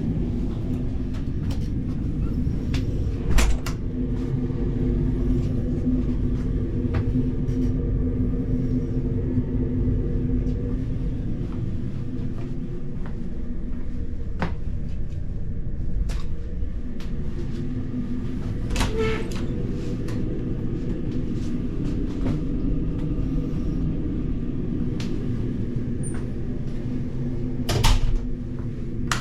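Steady low engine drone with a constant hum, broken by a few sharp knocks or clatters, one about three seconds in, one near the middle and one near the end.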